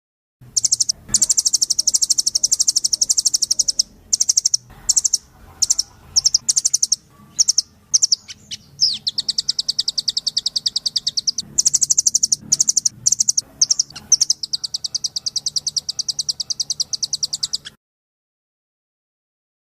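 A recorded songbird masteran track of the kind played to train songbirds. It is a rapid high-pitched chattering trill in stop-start phrases, some of them long and unbroken. It cuts off abruptly near the end.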